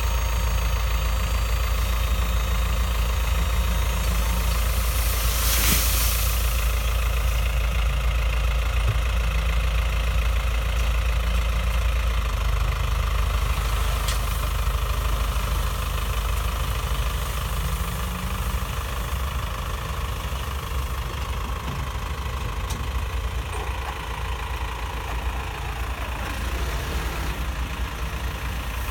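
A truck engine running steadily at idle, with a brief hiss about five seconds in.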